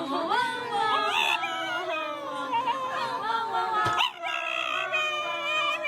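A dog howling and whining in long, wavering cries, with a short click about four seconds in.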